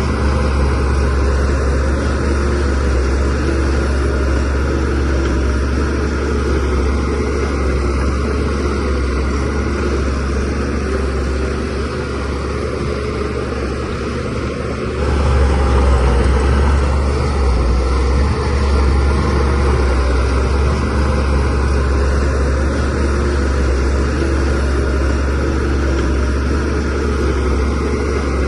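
Diesel engine of a DH17C3PRO bulldozer running steadily under load with a deep rumble. About halfway through, it eases off briefly, then picks up sharply.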